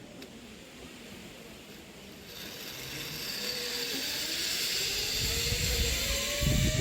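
Zip line trolley running along the steel cable: a hiss that builds from about two seconds in, with a slowly rising whine as it picks up speed. A low rumble joins near the end.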